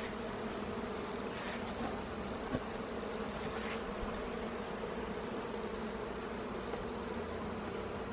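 Honey bees humming steadily around an opened hive, a dense, even buzz of many bees.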